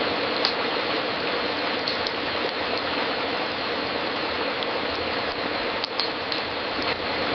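Fireplace fire crackling: a steady dense hiss of small crackles with a few sharper pops.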